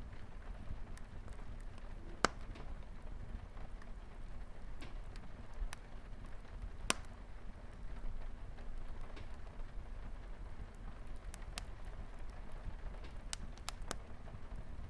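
Wood fire crackling with scattered sharp pops, the loudest about two seconds in and again near seven seconds, over a steady hiss of light rain on a window.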